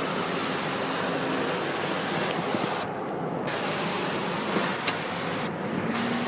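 Steady rush of wind and water spray on a boat moving fast over the sea, with the high hiss cutting out briefly twice.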